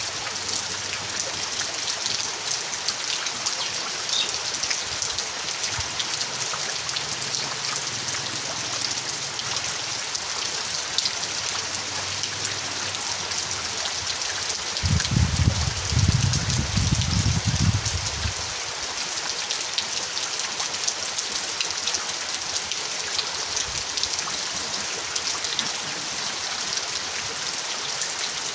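Steady rain falling: an even hiss thick with the patter of drops. About halfway through, a low rumble swells for some three seconds and dies away.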